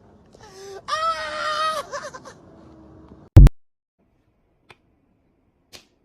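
A drawn-out, high wailing cry lasting about a second and a half, held mostly on one pitch. About three and a half seconds in there is a very loud, brief bang.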